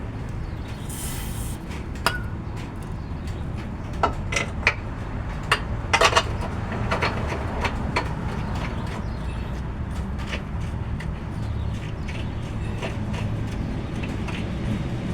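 Metal tools and suspension parts clinking and knocking irregularly, several sharp clinks in quick succession near the middle, over a steady low rumble.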